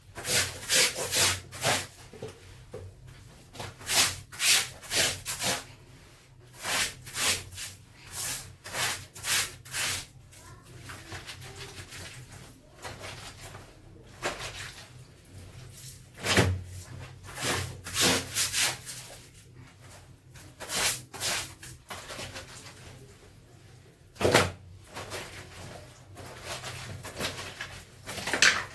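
Clothes being scrubbed by hand: runs of rough rubbing strokes, about two a second, broken by short pauses.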